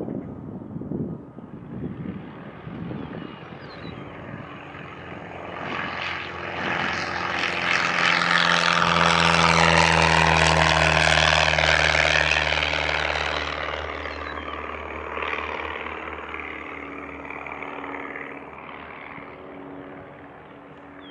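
Propeller airplane passing close by: its engine and propeller drone swells to a loud peak about halfway through, then fades away as the pitch drops.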